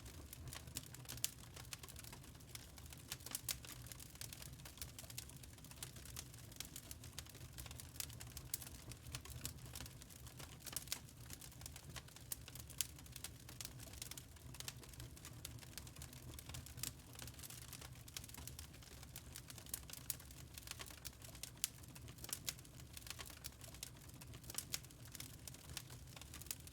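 Wood fire in a fireplace crackling: a dense, irregular run of small snaps and pops over a low steady rumble.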